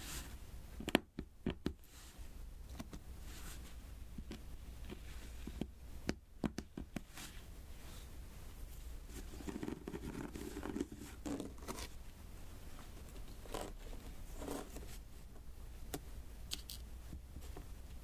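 Diamond painting by hand: small resin drills tapped one by one onto the sticky adhesive canvas, giving irregular light clicks and taps with soft sticky scraping and rustling between them.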